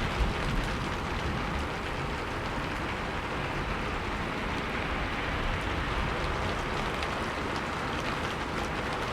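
Steady rain falling: an even hiss with scattered raindrop ticks.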